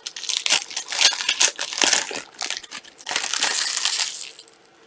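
Plastic trading-card pack wrappers being handled and crinkled open, a dense run of crackling that stops a little past four seconds in.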